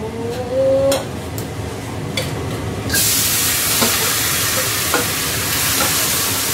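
Cooked vegetables tipped from a stainless bowl into a hot wok, starting a loud, steady sizzle about three seconds in as they are reheated. A spatula scrapes the bowl and clinks on the metal, before and during the sizzle.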